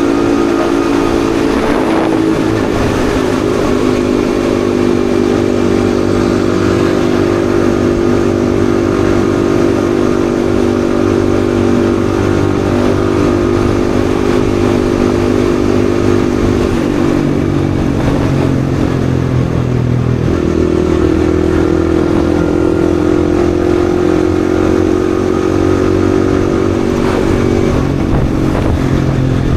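Yamaha XSR155's single-cylinder engine running while riding, its note holding steady for long stretches. It dips about halfway through and climbs again a few seconds later.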